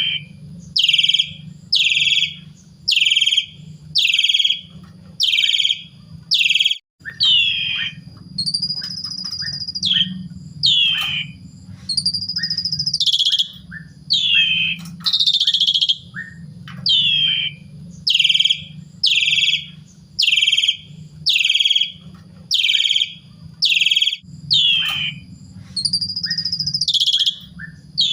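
Asian pied starling (jalak suren) calling over and over in lively song: loud harsh notes about once a second, each dropping in pitch. A few longer whistled notes come about 8, 12 and 26 seconds in, over a steady low hum.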